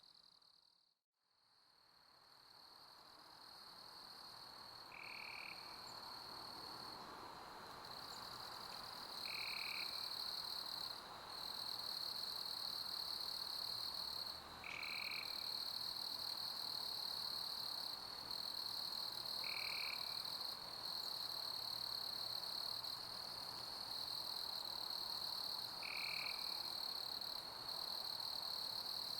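Summer crickets chirping in a steady high chorus over a soft hiss, with a short lower call repeated about every five seconds. About a second in, the sound drops almost to silence and fades back up over several seconds.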